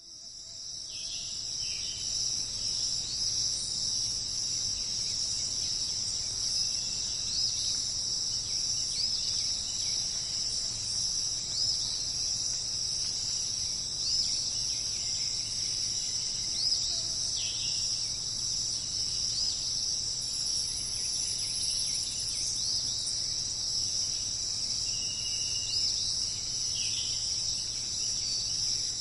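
Dense, steady, high-pitched insect chorus of crickets or similar insects, with short upswept bird chirps rising out of it every second or two and a few lower bird calls. It fades in at the start.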